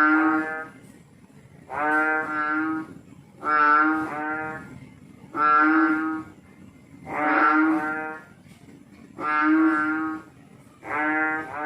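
A frog calling: a drawn-out, steady-pitched call about a second long, repeated about every two seconds, some calls breaking into two parts.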